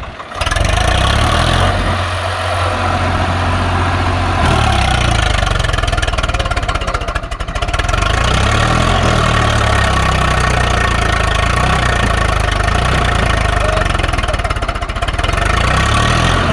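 Swaraj 744 FE tractor's three-cylinder diesel engine running loud and steady under load, pulling a trolley stuck in mud. It eases off briefly twice, about two seconds in and again around seven seconds.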